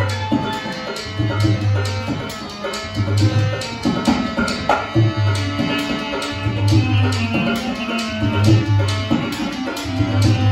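Rajasthani folk music: a hand drum plays a steady rhythm of deep strokes about once a second, with quicker, lighter strokes in between, under held melodic notes.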